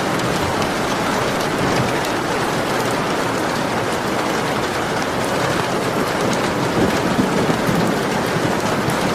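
Steady heavy rain, a dense hiss of falling water with many individual drops pattering through it.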